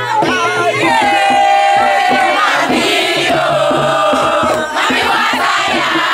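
A crowd of young voices chanting and shouting together, with long held sung notes rising above the group.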